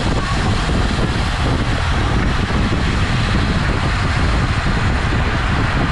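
Steady rushing wind noise on the microphone with road noise, from riding a road bicycle at speed.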